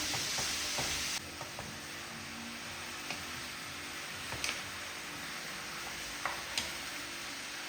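Food frying in a pan, sizzling. The sizzle drops suddenly about a second in to a quieter steady hiss, with a few light clicks.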